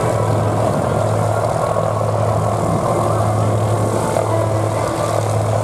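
Propeller aircraft engine droning steadily, a continuous low hum with no change in pitch.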